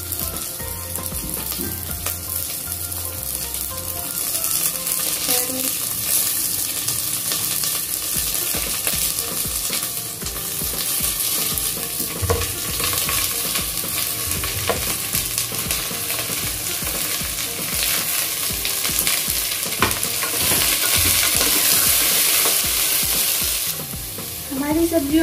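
Chopped vegetables sizzling as they are dropped by hand into hot oil with onions in an open pressure cooker and lightly fried, with small clicks of pieces landing and being stirred. The sizzle grows louder near the end.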